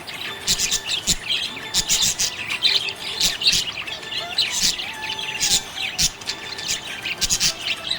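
Budgerigars chirping: many quick, high chirps and short pitch-gliding calls overlapping without a pause.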